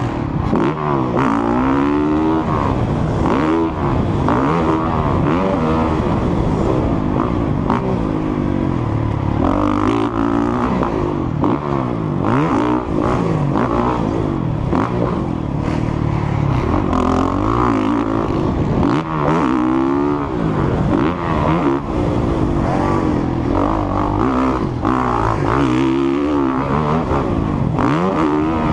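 Motocross bike engine running hard, its pitch climbing and dropping back again and again as the throttle opens and closes.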